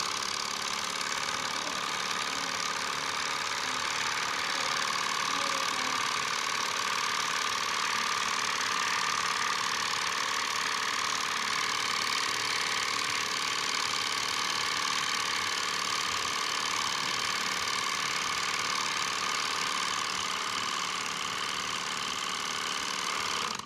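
Small model Stirling engine running steadily: an even mechanical whir with a steady whine that holds its pitch, ending abruptly.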